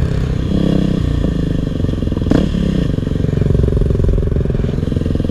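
A four-stroke single-cylinder dirt bike engine runs on the trail, its pitch rising and falling with the throttle. About two seconds in there is a sharp knock or clatter.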